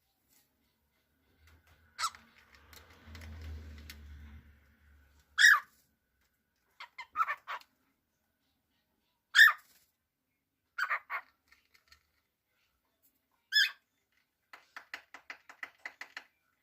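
Cockatiel calling: single loud, sharp chirps a few seconds apart and some quick double chirps, then near the end a fast run of short chattering notes.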